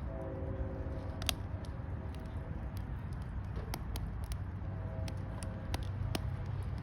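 Campfire burning with irregular sharp crackles and pops over a steady low rumble. A faint pitched tone sounds briefly near the start and again about five seconds in.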